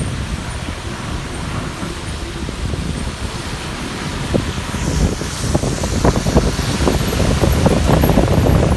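A KSRTC bus on the move: steady road and engine noise, with uneven wind rumble, growing louder in the second half.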